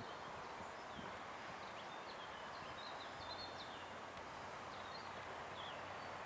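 Small birds chirping in short high calls, mostly around the middle, over a faint steady outdoor background noise.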